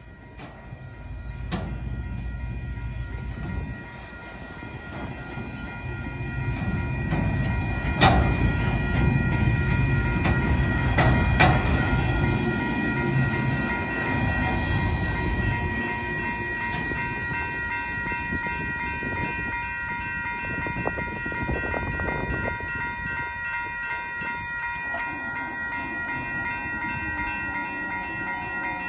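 Union Pacific train going by with a low rumble and wheel clatter, loudest in the middle, with a few sharp knocks. Over it runs a steady high multi-note ringing tone that cuts off suddenly at the very end.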